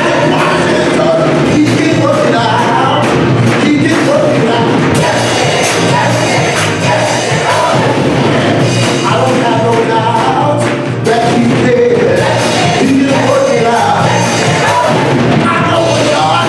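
Live church worship music: a band with drums playing while voices sing.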